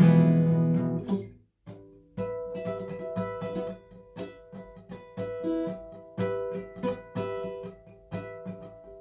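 Sire A3 six-string acoustic guitar: a strummed chord rings and dies away about a second in, then after a brief pause softer single picked notes ring out one after another.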